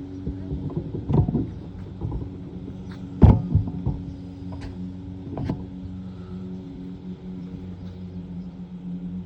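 Knocks and thumps of someone climbing up onto a truck, three loud ones about a second, three seconds and five and a half seconds in, the middle one the loudest, over a steady low mechanical hum.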